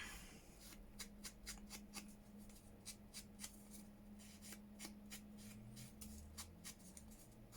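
Faint handling of paper on a work surface: a run of light, irregular ticks and rustles.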